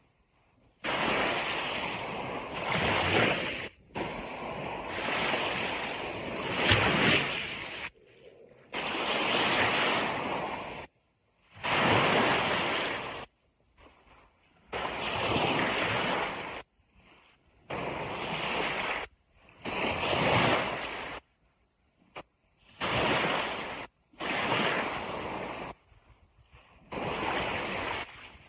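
Sea waves washing on a beach, heard as a hiss of surf in bursts of one to three seconds that start and stop abruptly, with short silent gaps between them.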